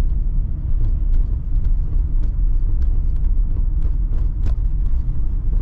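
Car driving on an uneven road, with a steady low rumble and light knocks at irregular intervals from the right front suspension. The knocks are the sign of a worn front stabilizer (anti-roll bar) link.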